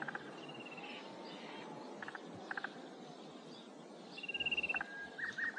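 Outdoor ambience with birds calling: scattered short chirps and clicks over a low hiss, and a rapid high trill about four seconds in.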